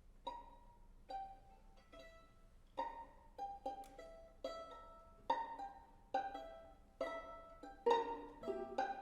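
String quartet of two violins, viola and cello playing pizzicato: single plucked notes, sparse at first, coming closer together and building toward the end.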